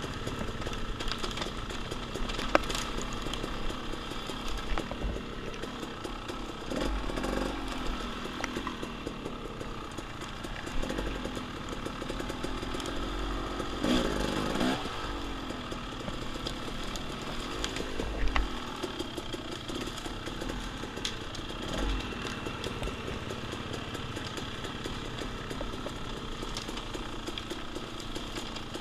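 Dirt bike engine running under way, revving up and down as it is ridden, with wind buffeting the microphone and scattered knocks and clatter.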